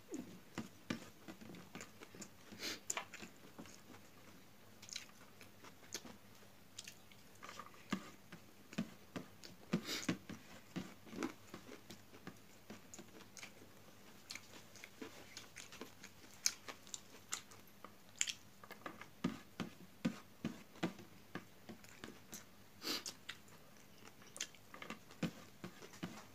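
Close-up chewing of a mouthful of rice and cabbage eaten by hand, with irregular wet mouth clicks and smacks.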